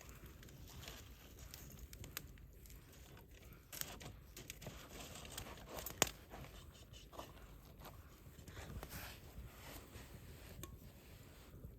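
Wood campfire crackling, with scattered small snaps and one loud, sharp pop about six seconds in.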